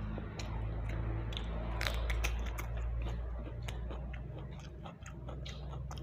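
Close-up chewing and biting of grilled chicken, wet mouth clicks and smacks coming irregularly, over a low steady hum.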